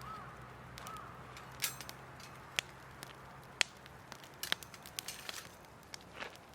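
Wood campfire crackling, with sharp pops coming at irregular intervals.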